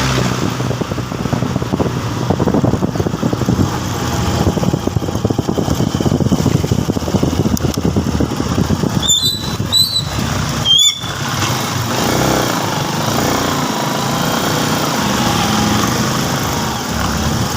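Motorcycle being ridden on the road: steady engine and road noise throughout. A few short, high squeaks come about nine to eleven seconds in.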